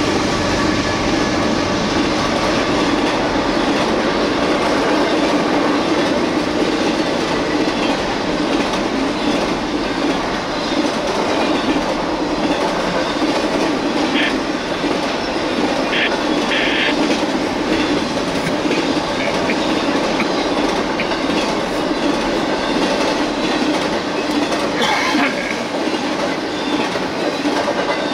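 Freight train cars rolling past close by: a steady rumble with the clickety-clack of wheels on rail joints, and a few brief wheel squeals about halfway through and again near the end.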